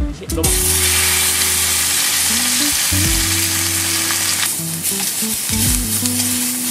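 Food sizzling in a hot pan, starting about half a second in and easing off after about four seconds. Background music with a bass line plays under it.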